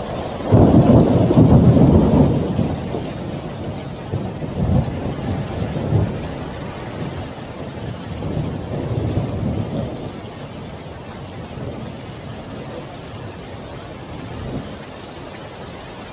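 Thunder during a rainstorm: a loud low rumble breaks about half a second in and rolls on in weaker swells for over ten seconds, fading out near the end, over the steady hiss of falling rain.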